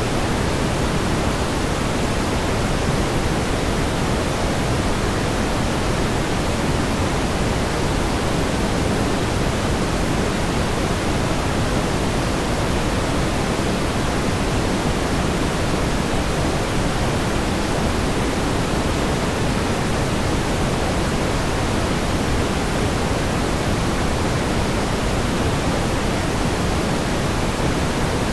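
Steady pink noise: an even, unchanging hiss, heavier in the low end and softer toward the top.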